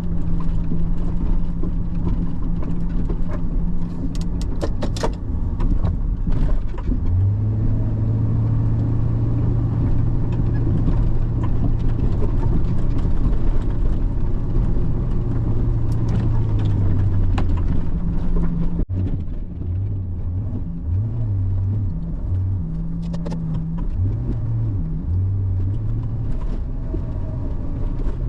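Snowplow pickup truck's engine running under load, heard from inside the cab, its note stepping up for several seconds and then dropping back and wavering, with a few sharp clicks from the cab early on.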